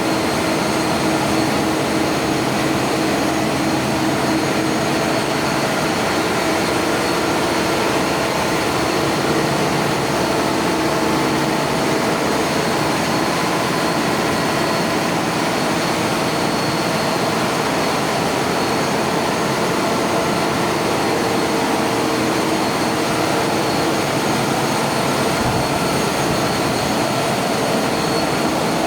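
A tugboat's diesel engines running loud and steady, heard inside the engine room, with a few constant whining tones over the dense engine noise.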